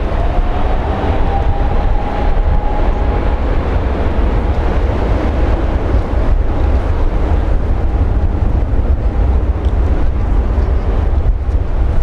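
Airbus A330-300 jet airliner's engine rumble, with a faint whine that rises slightly and fades in the first few seconds, mixed with heavy wind buffeting the microphone.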